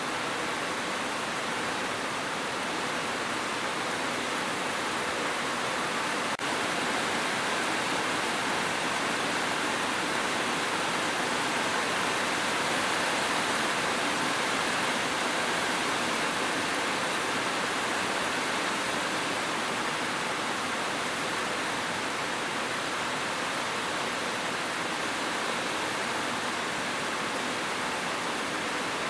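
Steady, dense rain as an even hiss, with no single drops standing out. There is one faint click about six seconds in.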